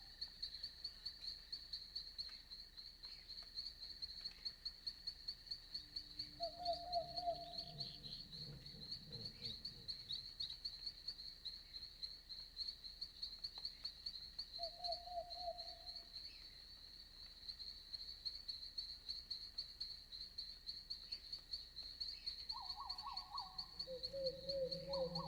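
Night forest ambience: a steady, fast-pulsing high insect chirping, like crickets, runs throughout. Over it come short pitched animal calls about seven seconds in and again about fifteen seconds in, then several overlapping calls at different pitches near the end.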